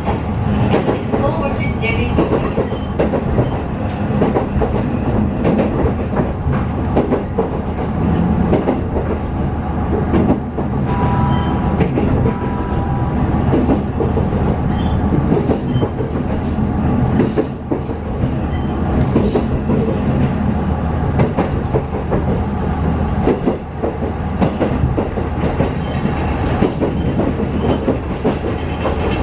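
Inside a JR Hachinohe Line diesel railcar under way: a steady running rumble with wheels clacking over rail joints.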